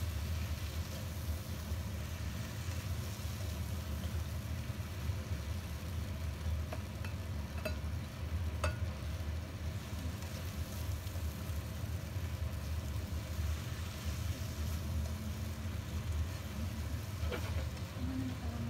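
Udon noodles with prawns and vegetables sizzling in a wok as a spatula stirs and tosses them, with a few sharp clicks of the spatula against the pan. A steady low hum runs underneath and is the loudest part.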